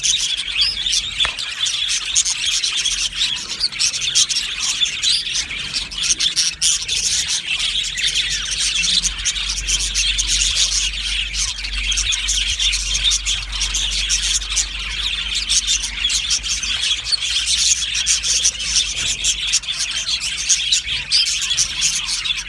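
A flock of budgerigars chattering and chirping together in an aviary, a dense unbroken warble of rapid high chirps.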